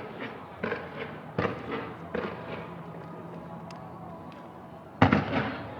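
Fireworks shells bursting over a harbour: a run of four booming bangs in the first couple of seconds, then a much louder bang about five seconds in, each echoing briefly.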